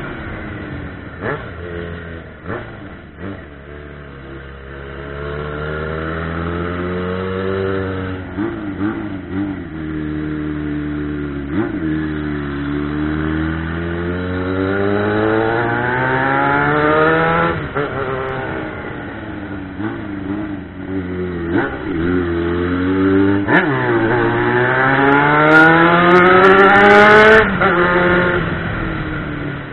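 Yamaha XJ6's 600 cc inline-four engine under way, its revs climbing and falling back again and again with throttle and gear changes. Two long climbs in the second half grow loudest shortly before the end, then the engine eases off.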